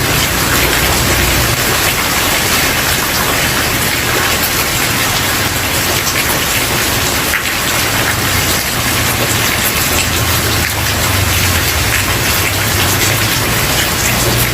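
Steady rain falling on a wooden porch, a dense even patter of drops at a constant level, with a faint low rumble underneath at times.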